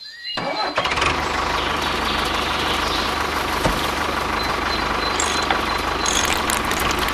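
A motor or engine running steadily with a fast low rhythm, starting up about half a second in after a short silence.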